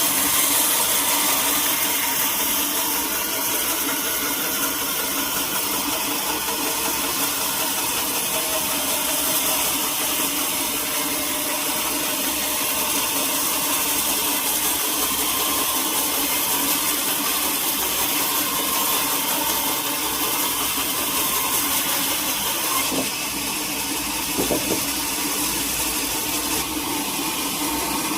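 Sawmill machinery running steadily, an engine-driven saw with an even hum and hiss, with a couple of brief knocks about three-quarters of the way through.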